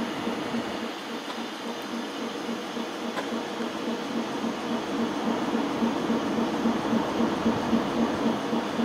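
Gatwick Express and Southern electric multiple-unit trains running slowly over junction pointwork: a steady rumble with a hum that pulses about four times a second, growing louder in the second half.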